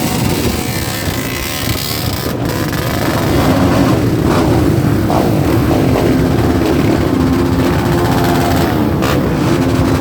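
Motorcycle engines running as a group of motorcycles rides off, with one steady engine note coming in about a third of the way through.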